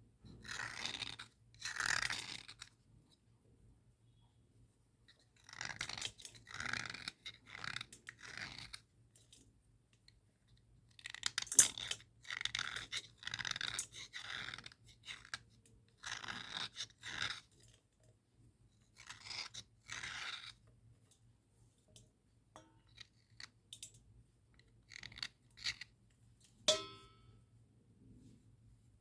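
A dry cubical slate pencil scraping and rubbing across a slate in repeated gritty strokes. The strokes come in runs of several with short pauses between them.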